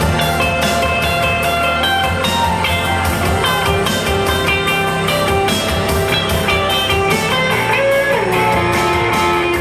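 A live band playing: guitar lines, with some notes bending in pitch near the end, over a steady drum beat.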